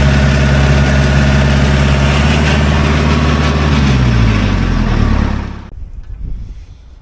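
Tractor engine running steadily, its pitch settling after a slight rise, then dropping as it slows about four to five seconds in before the sound cuts off abruptly.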